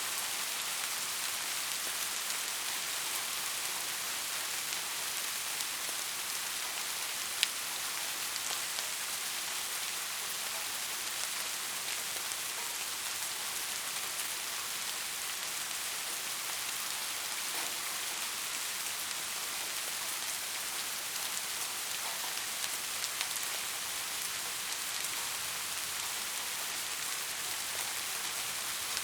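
Steady rain falling, an even hiss, with one sharp drop-like tick about seven seconds in and a few faint ticks later.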